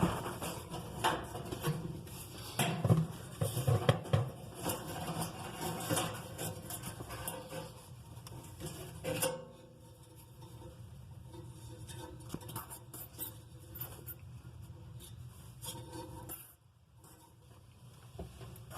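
Metal clinking, knocking and scraping as tools and parts are handled inside a gas stove during an igniter replacement. Many sharp clinks in the first half, then quieter, lighter scraping.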